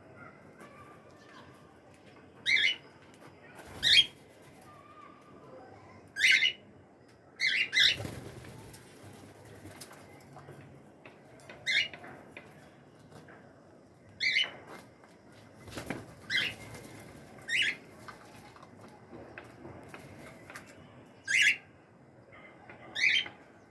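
Cockatiels calling: about a dozen short, harsh chirps, spaced irregularly a second or more apart, with a couple of brief rustling flurries in between.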